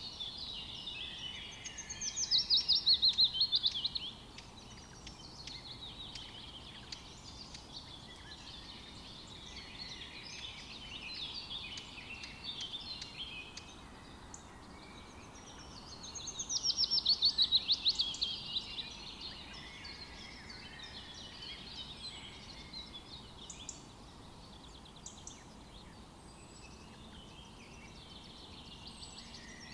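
Forest birdsong: several songbirds singing and chirping together. One louder song of rapid notes falling in pitch, about two seconds long, comes twice, near the start and about halfway through.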